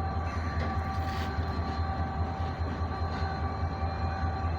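Diesel locomotive of a passenger express train running steadily, a low rapid throb with a few steady whining tones above it.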